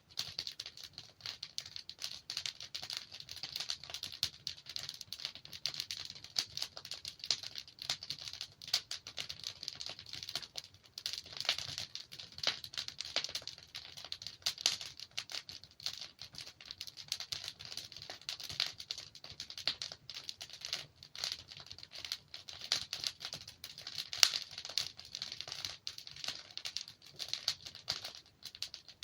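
Wood fire burning in a fireplace, its logs crackling in a dense, irregular patter, with an occasional louder pop.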